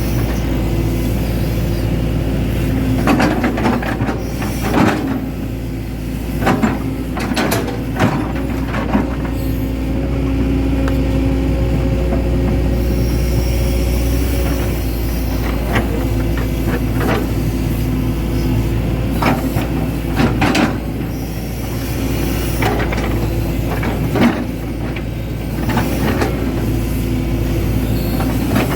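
Hitachi Zaxis 110 excavator's diesel engine running steadily, with many sharp knocks and clanks scattered through.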